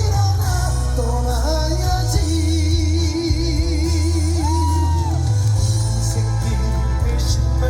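Live song through a loud PA: a man sings long held notes with wide vibrato over an amplified backing track with heavy bass.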